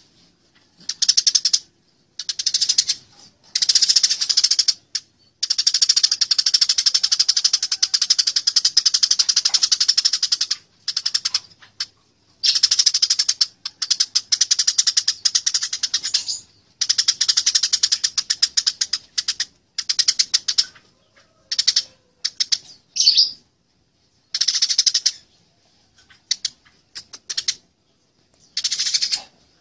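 Eurasian tree sparrows fighting: fast, dense chattering chirps in bursts from under a second to about five seconds long, broken by short silent gaps.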